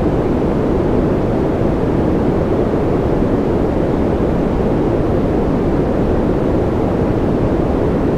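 Continuous white noise for sleep: an unbroken, steady rush that is strongest and deepest in the low end, with no changes or events.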